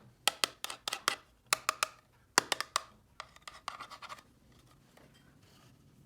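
Small plastic toy pieces being handled and clicked together: a quick run of sharp clicks and taps in clusters, stopping a little after four seconds in.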